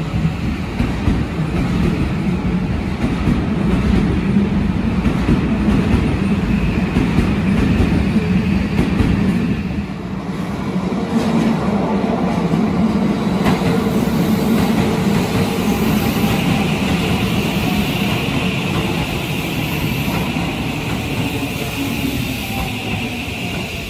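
Shin-Keisei Line electric commuter trains running through a station: a train's steady rolling rumble of wheels on rail, then, about ten seconds in, another train coming round the curve and running into the platform, with a faint whine in its second half.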